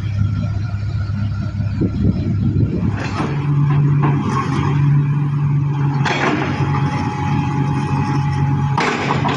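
Excavator's diesel engine running steadily, with short noisy bursts about three, six and nine seconds in.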